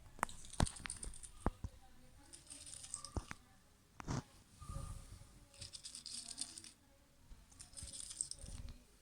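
Something rattled in three short shaken bursts, after a few sharp clicks or taps.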